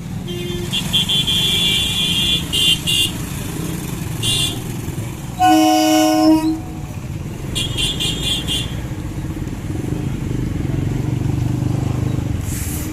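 Road traffic waiting at a railway level crossing: engines running, with several short, high-pitched horn beeps. A louder, lower horn blast comes about five and a half seconds in and lasts about a second.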